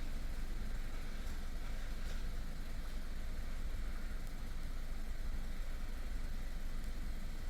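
Kia K3's 1.6-litre Gamma II MPI four-cylinder engine running steadily with an even low rumble.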